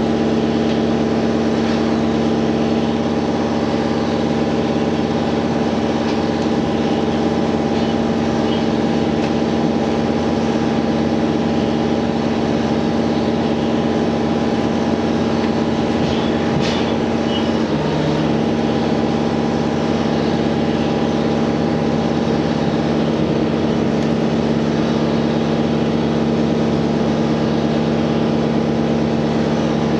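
Onboard running sound of a JR Hokkaido H100 diesel-electric railcar: a steady hum from its diesel engine and electric drive, with running noise underneath. A brief click comes a little past halfway, and one tone shifts slightly soon after.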